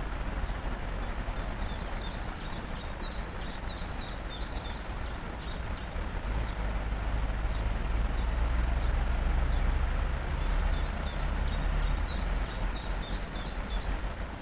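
Waterfall rushing steadily, with a deep rumble that swells in the middle. A small songbird sings two fast series of high, falling notes, one about two seconds in and one near the end.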